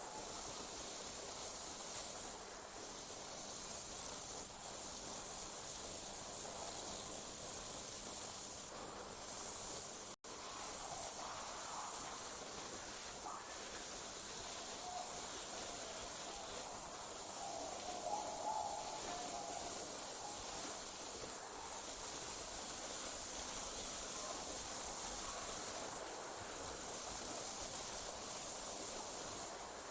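Night insects, such as crickets, trilling in a steady, high-pitched chorus that breaks off briefly every few seconds, over a soft hiss.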